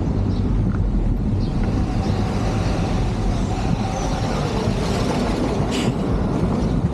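Motor vehicle running steadily with road noise, with a short hiss about six seconds in.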